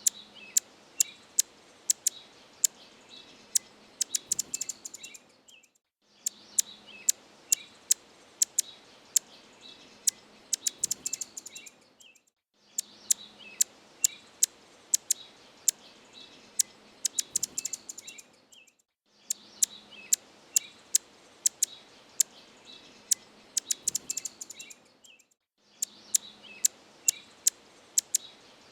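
Short, sharp bird chirps, a few per second and quickening into a rapid flurry, the same six-second stretch repeated over and over with a brief silent gap between repeats.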